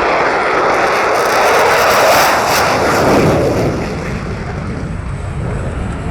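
F-22 Raptor's twin Pratt & Whitney F119 turbofans at takeoff power, a loud jet roar that swells and then fades about four seconds in as the jet moves away.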